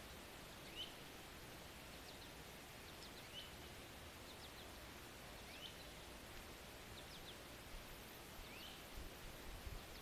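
Faint bird calls: a short rising call repeated about every two to three seconds, with brief high chirps in between, over a steady outdoor hiss. A few low thumps near the end.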